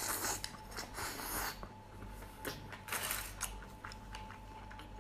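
A person chewing a mouthful of steamed half-shell clam with vermicelli and black-bean sauce: wet mouth smacks and soft clicks at an uneven pace.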